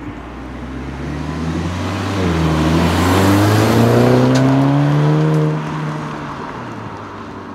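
Volkswagen Scirocco R's turbocharged four-cylinder accelerating hard past, its pitch climbing, dipping once about two seconds in as it shifts up, then climbing again and fading as the car pulls away.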